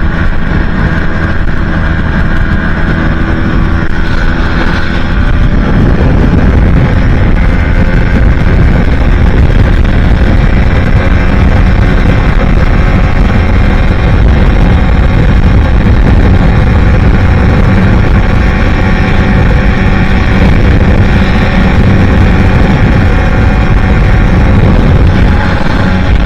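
Aprilia Tuono 125's single-cylinder four-stroke engine running at speed through an aftermarket Leo Vince exhaust, with heavy wind noise on the microphone. The sound gets louder about five seconds in and then holds steady.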